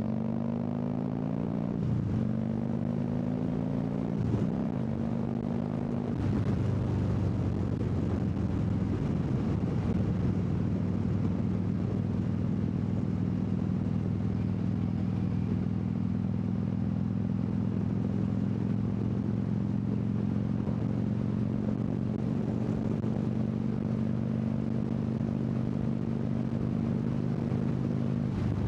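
Harley-Davidson V-twin motorcycle engine pulling away. It shifts up through the gears three times in the first six seconds, then holds a steady cruise, with wind noise.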